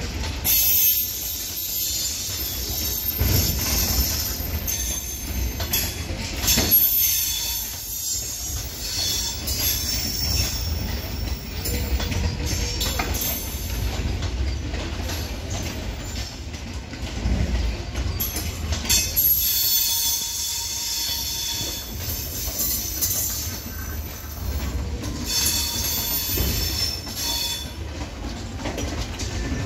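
Indian Railways passenger coaches rolling past on the rails, with a steady low rumble and clatter of the wheels. High wheel squeal rises at several points as the train runs in.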